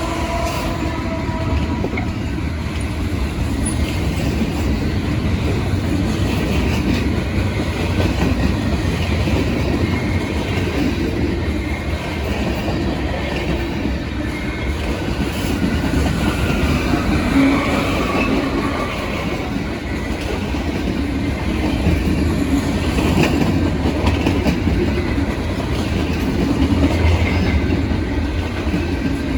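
Norfolk Southern freight train rolling past at track side: a steady, loud rumble of freight cars with wheels clacking over the rail joints and faint wheel squeal. The tail of a locomotive horn fades out in the first second or two.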